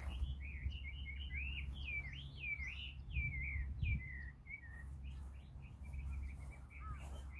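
A songbird singing a long, continuous warbling song of quick rising and falling notes, over a low steady hum.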